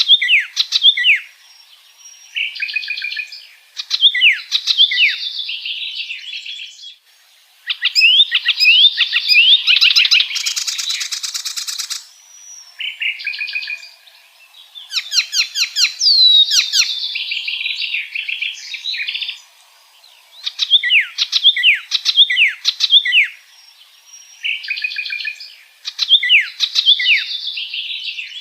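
Icterine warbler singing: a long run of varied phrases of quick, repeated down-slurred whistled notes mixed with buzzy, chattering passages, with a harsh rasping stretch about ten seconds in and short pauses between phrases.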